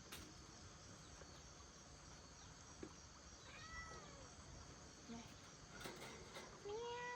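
Kitten meowing faintly: a short, arched mew a few seconds in and another call near the end, with a few small clicks.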